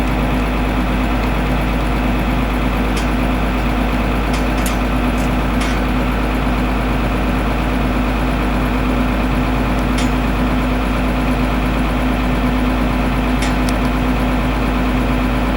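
Tractor engine running steadily, with a constant low hum and a few light clicks and rattles now and then.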